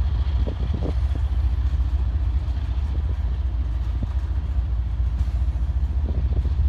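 Covered hopper cars of a freight train rolling past close by: a steady low rumble of steel wheels on rail, with a few knocks near the start and again near the end.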